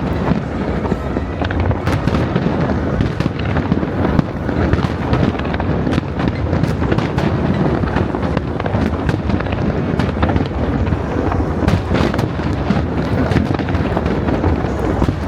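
Fireworks going off in a continuous barrage: rapid cracks and bangs over a steady rumble of booms.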